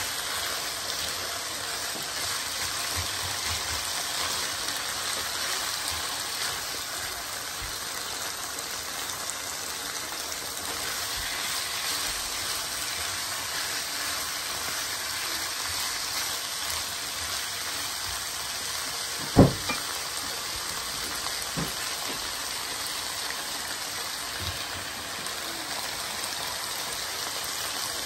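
Minced meat and chopped vegetables sizzling steadily in a hot frying pan as they are stir-fried with a spatula. One sharp knock about two-thirds of the way through, with a couple of fainter knocks after it.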